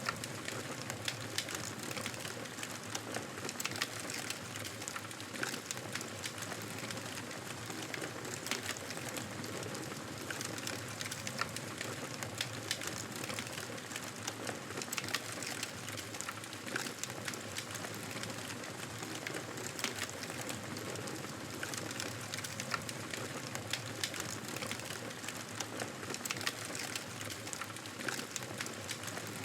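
Wood fire in a fireplace crackling: a steady hiss of flames with frequent small, sharp pops and snaps at irregular moments.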